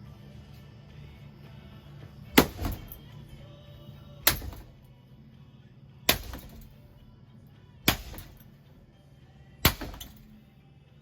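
Five sharp crashing impacts, evenly spaced a little under two seconds apart, each followed by a smaller second knock, over a steady low hum.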